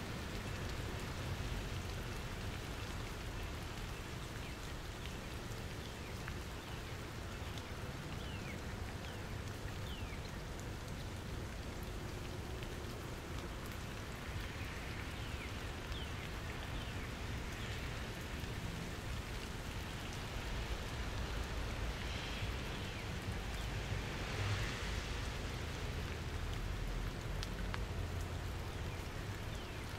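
Steady rain falling and pattering on surfaces. A low rumble grows a little louder in the second half.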